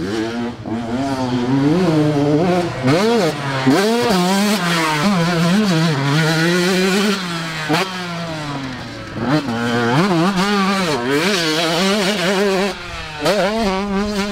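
Dirt bike engine revving up and down as it is ridden, its pitch rising and falling with the throttle every second or so, then holding a steadier note near the end.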